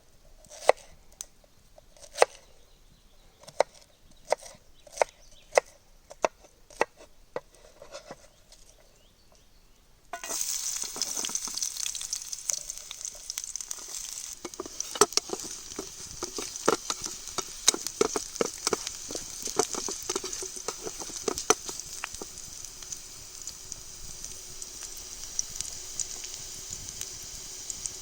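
A series of sharp taps, about one a second, then about ten seconds in food goes into a hot pan of fat and starts sizzling loudly all at once. A utensil knocks against the pan as the food is stirred, and the sizzle carries on steadily.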